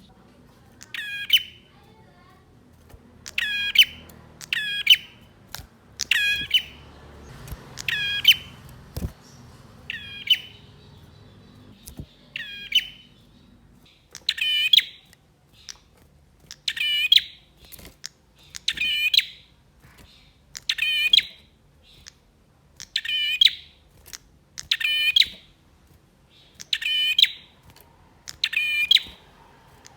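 Male prenjak songbird calling in an agitated, territorial state. It gives short, sharp, ringing phrases that sweep downward, repeated at first in irregular pairs and then steadily about once a second.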